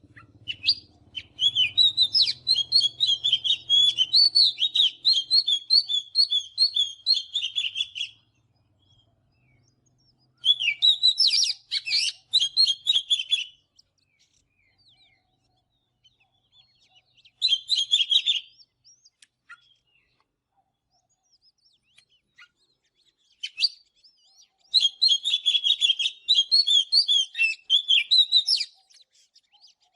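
Oriental magpie-robin singing: four bouts of rapid, varied whistled notes, the first and last several seconds long, a short burst in between, with pauses between bouts.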